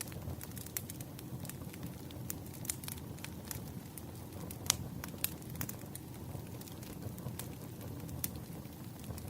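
Wood fire burning: a steady low rumble of flames with irregular sharp crackles and pops from the burning logs, one louder pop about halfway through.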